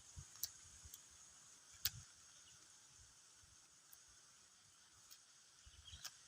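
Near silence: a faint steady high hiss with a few soft clicks.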